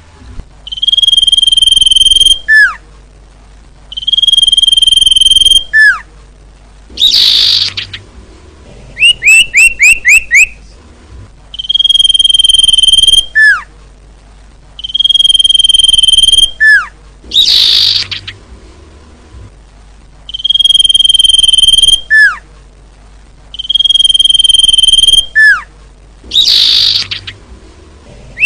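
Female common iora calls in a repeating sequence, about every nine to ten seconds. Each round has a quick run of five falling chirps, then two long steady whistles that each end in a short falling note, then a harsh rasping note.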